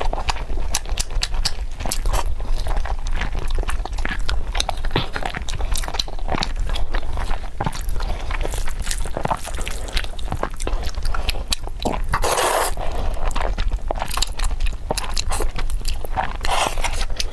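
Close-miked chewing and biting of meat, many small clicks and smacks in quick succession over a low steady hum, with a longer louder hiss-like sound about twelve seconds in.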